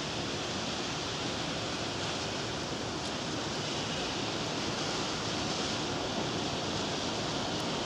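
Steady hiss of rain falling on the ground, even and unbroken.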